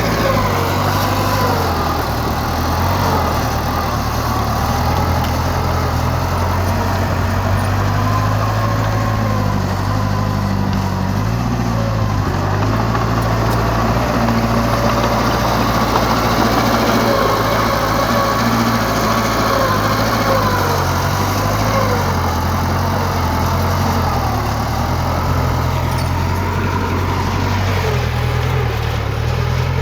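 Heavy diesel earthmoving machinery running steadily, the engine note rising and falling slightly, with a wavering higher whine above it.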